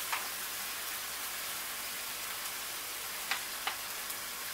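Chicken and asparagus sizzling steadily in a hot wok during a stir-fry, with two faint ticks about three and a half seconds in.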